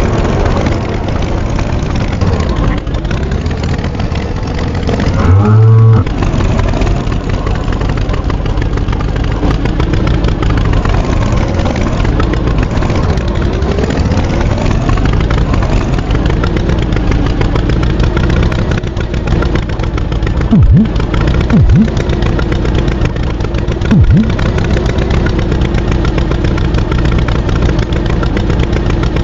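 Vehicle engine running continuously, its pitch rising and falling as it revs. A short, loud low tone comes about five and a half seconds in, and three brief loud bursts come around two-thirds of the way through.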